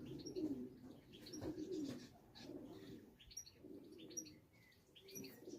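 Racing pigeons cooing, a run of low warbling coos one after another, with short high chirps over them.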